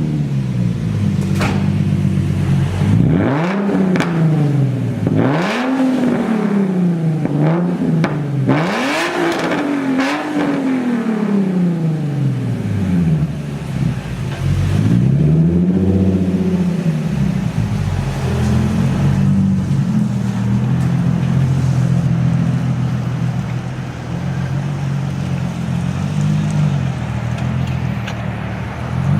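Nissan 350Z Nismo's V6 running through a Tomei exhaust, with the catalytic converters still fitted. It idles, is blipped about five times in quick succession, takes one slower rev a few seconds later, then settles back to a steady idle.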